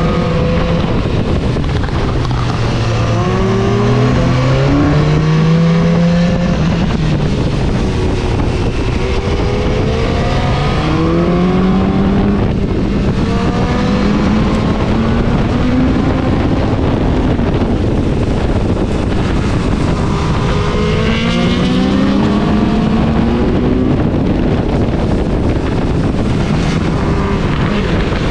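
BMW S1000-series inline-four motorcycle engine accelerating hard through the gears. Its pitch climbs in long sweeps and drops back at each shift, several times over. Steady wind rush on the helmet-mounted microphone runs under it.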